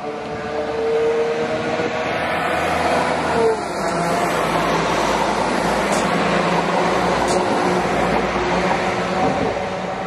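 West Midlands Railway Class 172 diesel multiple unit passing close by under power. A pitched whine falls slightly in pitch and stops about three and a half seconds in, then a steady low engine note carries on. Two sharp clicks come as the carriages go past.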